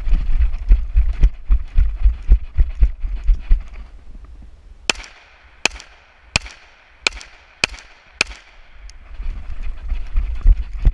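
A string of six pistol shots, sharp cracks about two-thirds of a second apart. Before them come a few seconds of heavy, muffled low thumping against the camera microphone.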